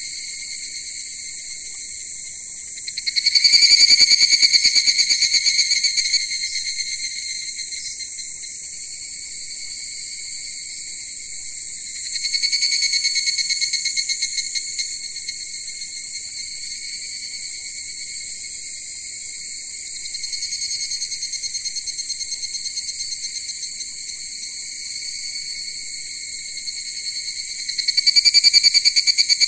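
Night insect chorus: a steady high-pitched drone. About three seconds in, again around twelve seconds, and near the end, a louder rapid pulsing trill swells up over it and fades.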